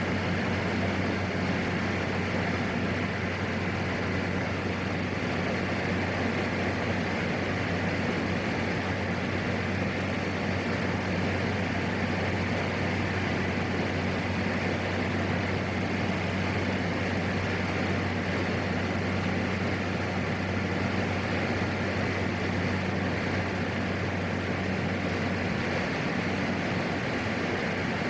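PAC 750XL's turboprop engine and propeller running steadily in flight: a constant, even drone with a low hum.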